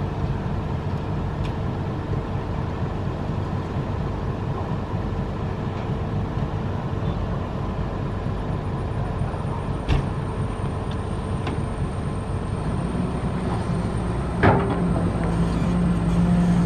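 A heavy construction machine's engine running with a steady low rumble. There are two sharp knocks, about ten and fourteen seconds in, and the engine note grows louder near the end.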